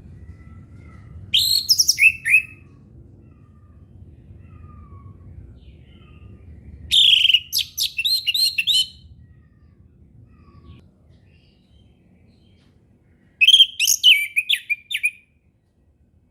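Orange-headed thrush singing: three short phrases of rapid, high whistled and trilled notes, each one to two seconds long and a few seconds apart, with faint distant bird calls in between.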